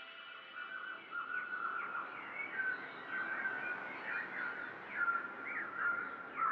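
A flock of small songbirds chirping and twittering, with many short overlapping calls over a faint hiss.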